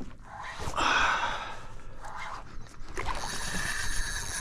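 Spinning fishing reel working against a freshly hooked fish: a rushing, whirring noise about a second in, then from about three seconds in a steady whirr with a high, even pitch as line is cranked in or pulled off the drag.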